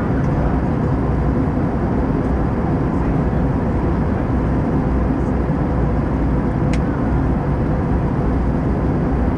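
Steady engine and airflow noise heard inside the cabin of an Airbus A320-214 in flight, a deep rushing hum with a faint steady drone in it. There is a single short click about two-thirds of the way through.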